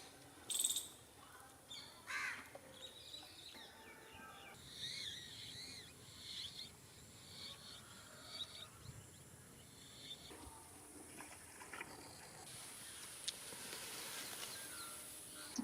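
Birds chirping and calling, a scatter of short rising-and-falling chirps, with a couple of brief louder calls or clinks near the start.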